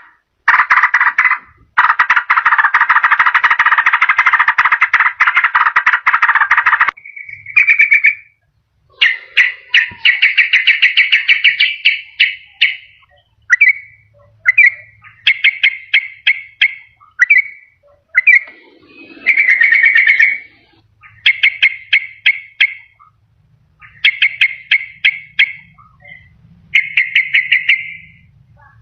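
Yellow-vented bulbul (trucukan) chattering and calling in quick bubbling phrases: a long dense run of notes about two seconds in that lasts some five seconds, then short phrases every second or two. A lure call that draws in wild trucukan and sets a quiet caged one singing.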